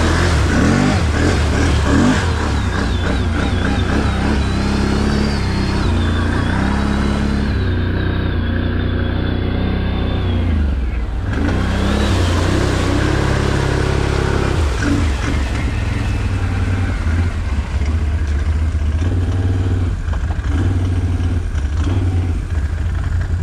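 Off-road vehicle engine revving up and down under load, with a thin high whine wavering in pitch through the first half.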